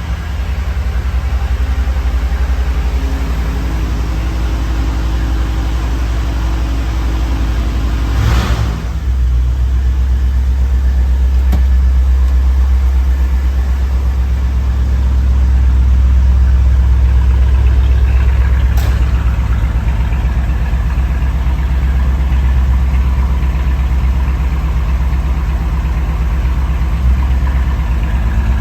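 Skyliner car's engine idling steadily after a cold start, with a short burst of noise about eight seconds in.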